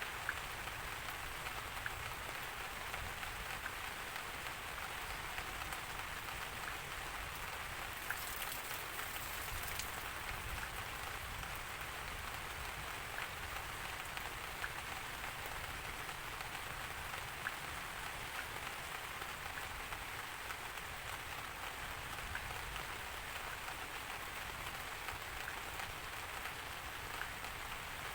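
Steady rain falling, an even hiss with single drops ticking here and there.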